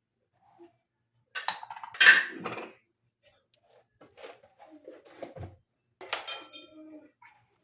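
Dishes and cutlery clinking and clattering in irregular handling strokes, loudest in a clatter about two seconds in, with another ringing clatter near the end.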